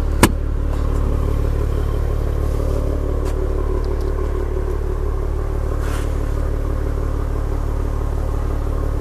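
A car engine idling, a steady low drone that holds even throughout, with one sharp click about a quarter of a second in.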